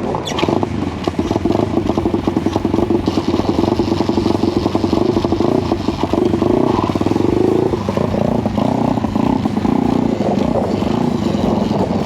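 A SYX 125 dirt bike's 125cc single-cylinder engine starts up and runs with a fast, steady putter. Its note changes around eight seconds in.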